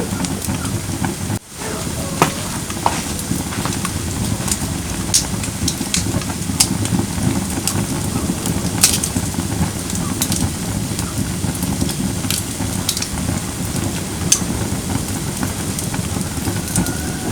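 Firewood burning in a fire pit: a steady low rustle of flames with sharp crackles and pops scattered irregularly throughout. The sound drops out briefly about a second and a half in.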